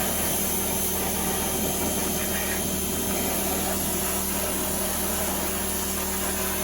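An engine running steadily at idle: a constant, even hum with a steady hiss over it.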